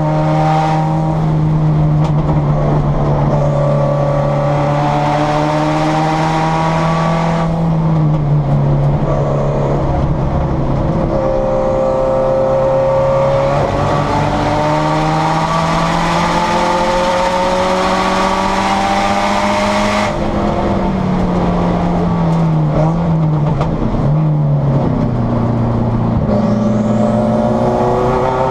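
Turbocharged Subaru STi race car's flat-four engine at hard throttle, heard from inside the stripped cabin, its note stepping with gear changes. About twenty seconds in, the throttle comes off and the revs fall in steps as it brakes and downshifts, then the engine pulls hard again near the end.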